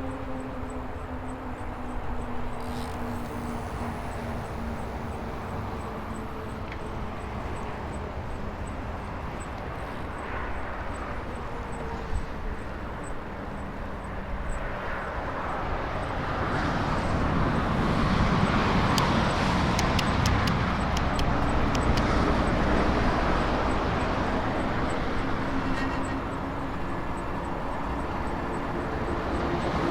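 Folding e-bike on the move: a motor whine slowly falls in pitch at the start, over rushing wind and tyre noise. About halfway through the rushing swells louder, with a quick run of sharp clicks, and the whine comes back rising in pitch near the end.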